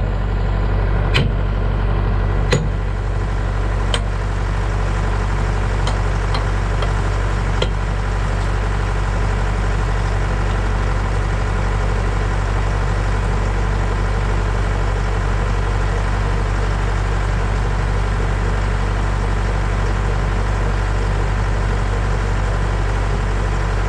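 Case 680B backhoe engine idling steadily, with a few sharp clicks in the first eight seconds.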